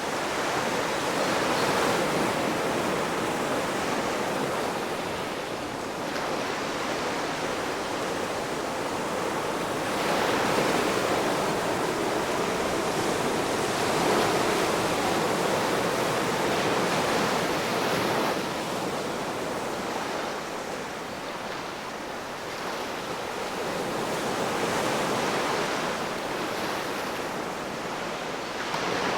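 Ocean surf washing onto the shore in slow swells, each wave building and fading over several seconds.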